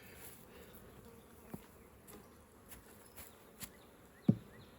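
Honeybees buzzing from an open, well-populated hive, faint and steady, with a few short knocks, the sharpest near the end.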